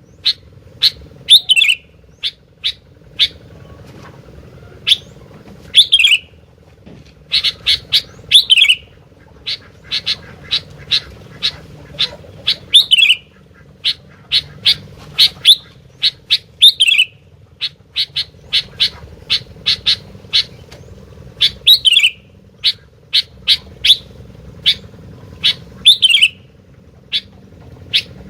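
A gentilang bulbul singing without pause. It gives runs of short, sharp chipping notes, with a loud falling whistled phrase every two to three seconds. A faint steady hum runs underneath.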